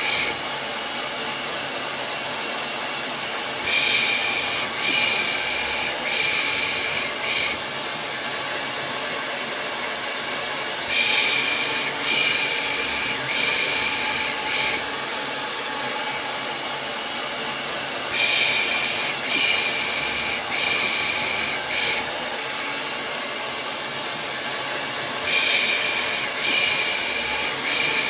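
Steady hair dryer noise with a person's 'pış pış' shushing laid over it. The shushes come in groups of about four, roughly every seven seconds.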